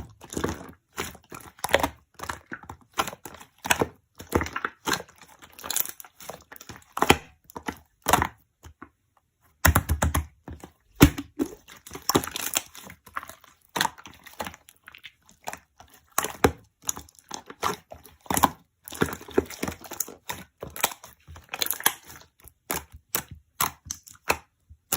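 Slime being squeezed, poked and stretched by hand, giving a continuous run of sharp crackles and pops, with a short pause a little over eight seconds in.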